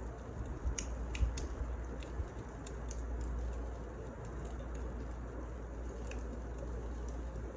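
Firewood burning: a steady low hiss and rumble with scattered sharp crackles and pops, several coming close together about a second in.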